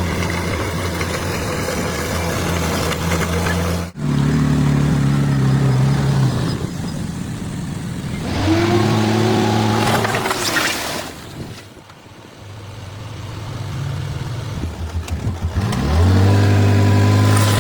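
Bulldozer's diesel engine running hard, its note climbing twice as it revs up under load, about eight seconds in and again near the end. The sound breaks off abruptly about four seconds in and dips around twelve seconds.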